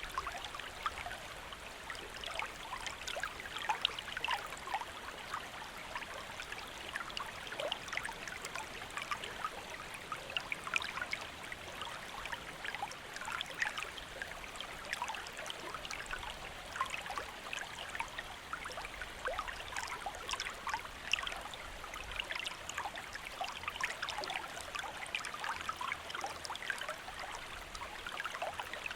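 Shallow stream flowing steadily, a constant rush of water with many small splashes and gurgles over the top.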